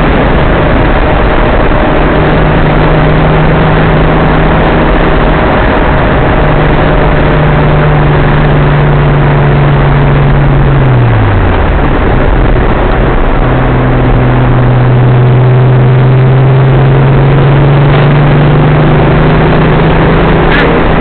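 Datsun 280ZX Turbo's turbocharged straight-six heard from inside the cabin at road speed, running steadily under heavy road and wind noise. About halfway through, its note slides down and fades, then comes back a second or two later and slowly climbs.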